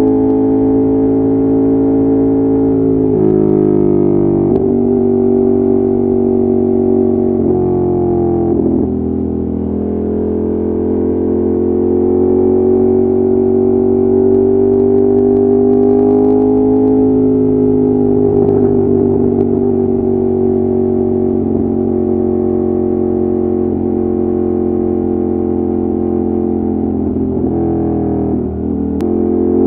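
Ducati Monster 1200's L-twin engine and exhaust under way on the road, held at a steady cruising note. The pitch steps down and back up a few times in the first third, as with gear changes or throttle rolls, and dips briefly near the end.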